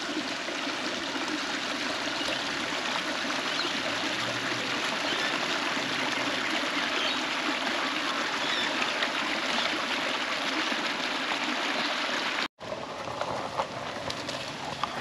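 A creek's water running steadily over rocks, an even rushing. It breaks off suddenly near the end, and a quieter sound with a few light clicks follows.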